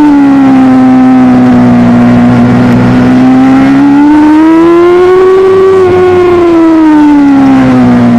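Superbike engine running hard at high revs, its pitch dipping, swelling up slowly to a peak a little past the middle, then sinking again.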